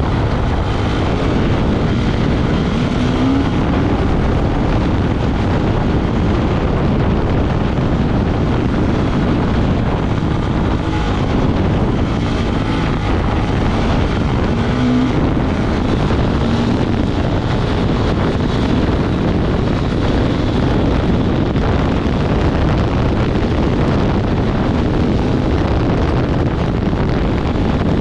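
Off-road motorcycle engine running steadily, with heavy wind noise buffeting the microphone.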